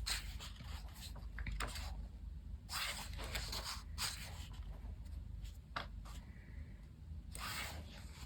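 Paper pages of a colouring book being turned and handled, a few brief rustling swishes with small clicks in between.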